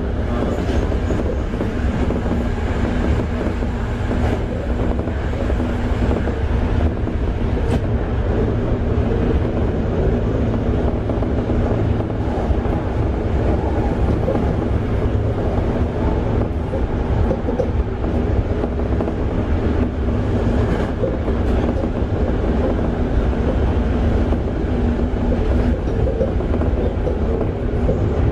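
Toei 5300 series electric train heard from on board, running at steady speed: an even rumble of wheels on rail with a steady hum from its Mitsubishi GTO-VVVF traction equipment and a few clicks from the track.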